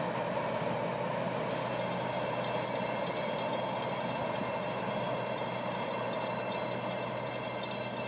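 Florida East Coast Railway freight train 240 moving away after its rear end has passed: steady wheel-on-rail noise slowly fading, with thin high ringing tones joining about a second and a half in.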